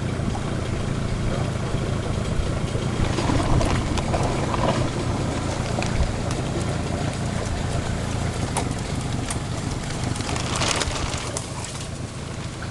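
Small fishing boat's outboard motor running steadily at low speed, mixed with wind on the microphone, with a brief noisy burst about ten seconds in.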